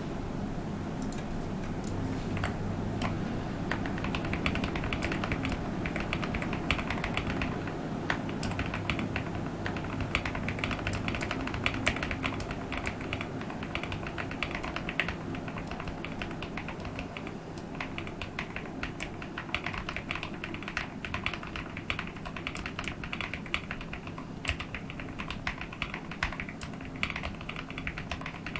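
Continuous fast typing on a QK65 custom mechanical keyboard with lubed and filmed Durock POM switches, a dense run of keystroke clicks with a soft, creamy character.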